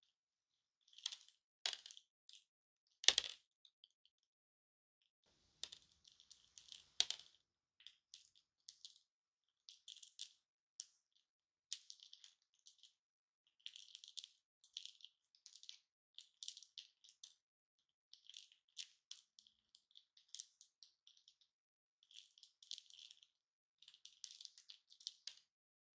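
Broken hard-candy lollipop pieces clicking and rattling against each other as they are handled, in short irregular clusters, with a few sharper knocks in the first seven seconds.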